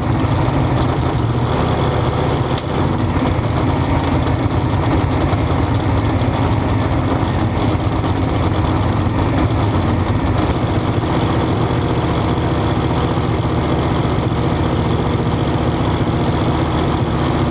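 A 1963 split-window Corvette drag car's race engine idling, loud and steady, while the car sits on the strip between the burnout and staging.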